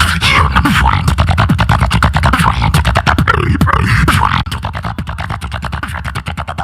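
Solo beatboxer performing through a microphone: fast, tight percussive hits over a bass line in a steady beat, with scratch-like effects. The beat drops noticeably quieter about four and a half seconds in.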